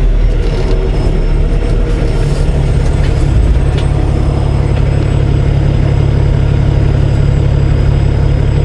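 Semi truck's diesel engine idling steadily with a deep, even low hum.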